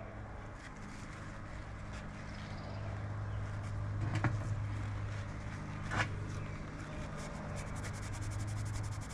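Cloth rubbing metal polish onto small metal pieces, with a steady low hum underneath and two light knocks midway, then a fast run of fine scratchy rubbing strokes near the end.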